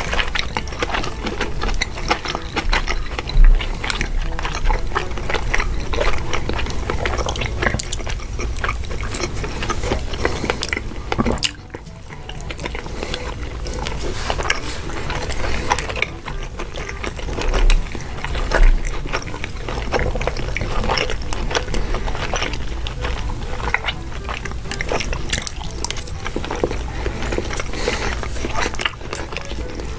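Close-miked wet chewing and mouth sounds of sushi rolls being eaten, many small smacks and clicks, with a few low thumps against the microphone.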